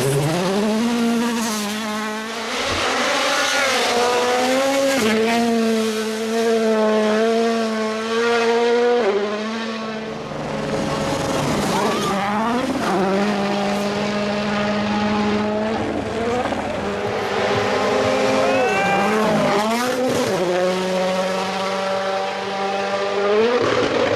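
2017–2021 World Rally Cars running flat out. Their turbocharged 1.6-litre four-cylinder engines hold high revs, then drop in steps at quick gear changes and climb again, several times over, with a few sharp cracks among them.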